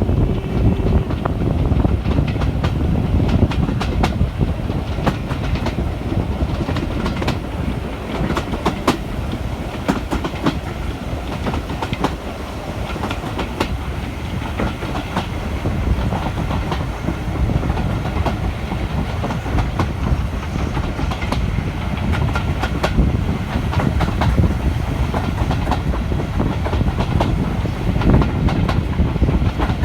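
Passenger train running along the track: a steady rumble of wheels on rail, with irregular sharp clicks and knocks from the rail joints.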